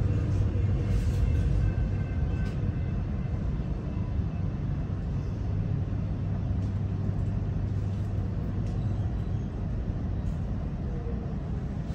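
Running noise inside a Melbourne Metro suburban electric train in motion: a steady low rumble of wheels on the track, with a faint whine above it.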